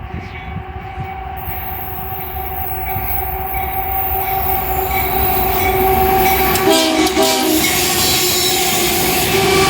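Diesel locomotive horn sounding one steady held note as a freight train approaches, briefly broken up about seven seconds in. Underneath, the rumble and wheel noise of the train grow steadily louder.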